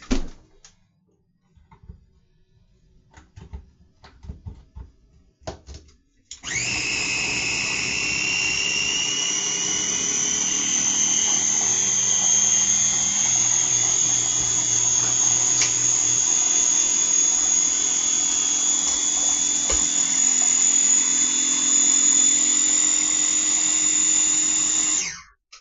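Blender motor running for about nineteen seconds, blending cottage cheese and eggs into a smooth bread batter; its whine rises as it spins up, then holds steady until it cuts off sharply near the end. Before it starts, a knock and light clicks of handling.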